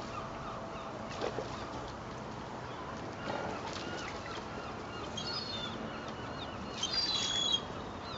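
Seagulls calling over a steady background hiss: a few short high calls about five seconds in, and a louder cluster of falling calls near the end.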